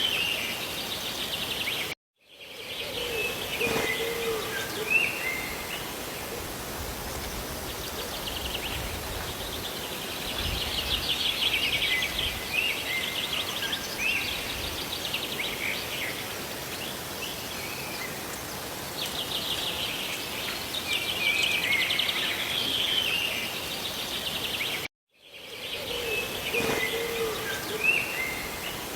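Steady rush of rain and falling water with songbirds chirping over it again and again. The sound cuts out completely twice, for a fraction of a second each time, about two seconds in and again near the end.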